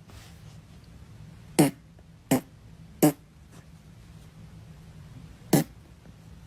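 Four short, sharp pops, three in quick succession about three-quarters of a second apart and a fourth after a gap of about two and a half seconds, over a faint steady hum.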